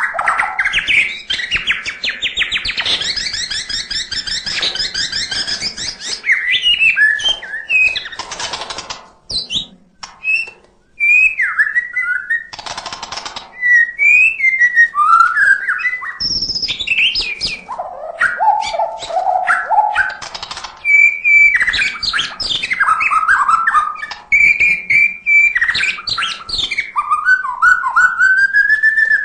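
White-rumped shama (murai batu) singing a long, varied song without pause: rapid trills, rising and falling whistled phrases and quick chirps, broken twice by short harsh rasping notes.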